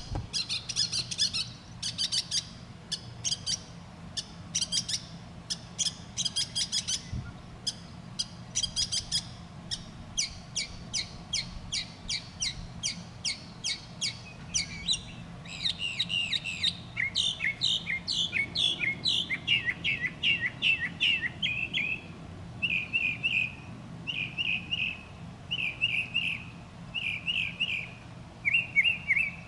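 A bird chirping: fast runs of sharp, high chips, several a second. After about fifteen seconds these give way to down-slurred notes and then to short trilled phrases repeated about once a second.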